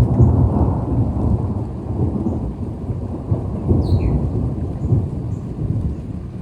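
Thunder rumbling with rain falling: a heavy low roll that swells at the start and stays loudest for the first second or so, then rolls on with smaller swells.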